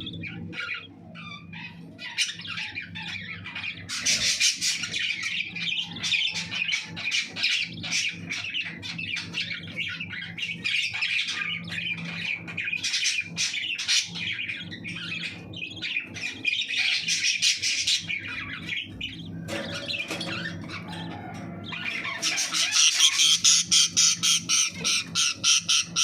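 Budgie chick begging while being fed by a parent: rapid, harsh, repeated squawking calls in quick runs, with the fastest and loudest run near the end. A steady low hum sits underneath.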